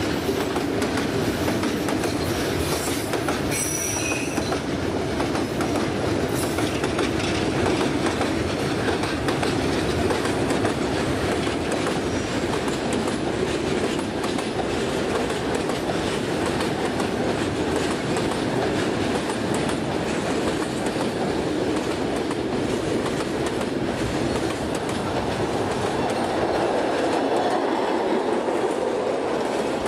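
Freight train wagons rolling past close by: a steady rumble of steel wheels on the rails with clickety-clack from the rail joints.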